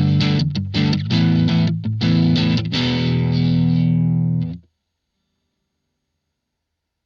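Distorted electric guitar played through a Blackstar ID Core Stereo 40 amplifier: a run of short chord stabs, then one held chord that is cut off suddenly past the middle, leaving silence.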